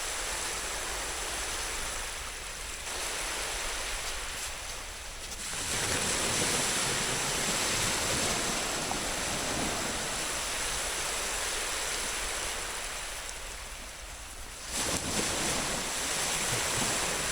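Sea surf washing onto a beach: a steady hiss of water that swells up about five and a half seconds in, and again near the end.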